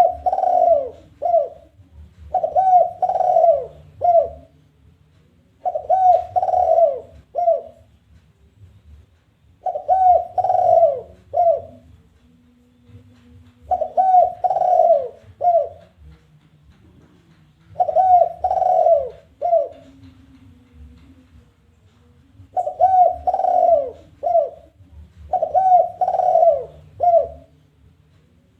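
Spotted dove (tekukur) giving its challenging territorial call: a phrase of three or four cooing notes, the last short and set apart, repeated about every three to four seconds.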